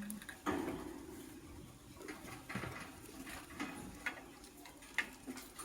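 Caged lovebirds: a few short, scattered chirps and clicks with light rustling, with a louder sound about half a second in and a sharp click near five seconds in.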